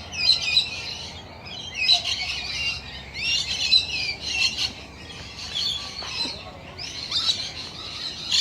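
A flock of birds calling: dense high-pitched chirps and squawks overlapping, swelling in louder bursts every second or two.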